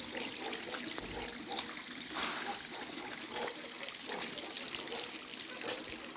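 Water trickling and splashing steadily, with many small scattered drips and ticks.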